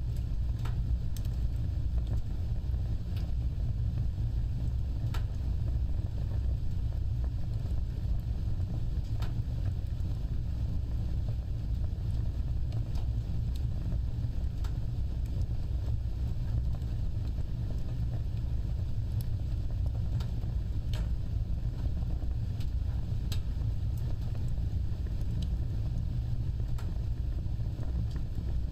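Fire burning with a steady low rumble and scattered sharp crackles and pops at irregular intervals.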